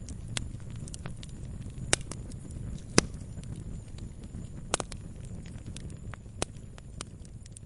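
Wood campfire burning: a low steady rumble of flames with irregular sharp pops and crackles, the loudest about three seconds in.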